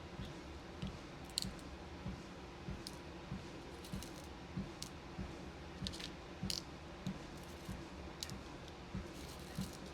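Footsteps thudding softly and evenly on a walking pad's belt, about one and a half steps a second, over the steady hum of its motor. Scattered sharp little clicks of beads and small plastic parts being handled.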